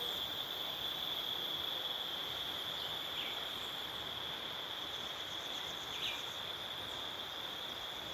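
Insects singing in one steady, unbroken high-pitched trill over an even background hiss, with a few short chirps about three and six seconds in.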